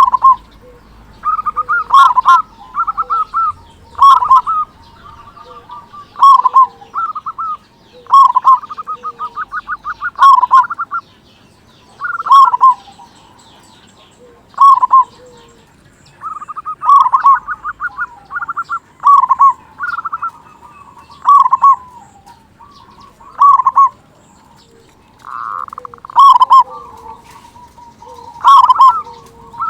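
Male local-strain zebra dove (perkutut) cooing over and over. Each phrase is a quick stuttering run of notes ending in a deep 'kung', repeated about every two seconds with a couple of short pauses.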